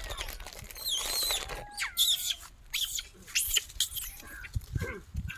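A series of short, high-pitched chirping and squawking animal calls with quick pitch sweeps, several following one another.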